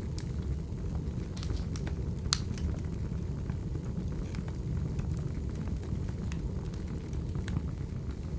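Crackling wood fire: a steady low rumble with scattered sharp pops, the loudest a little over two seconds in.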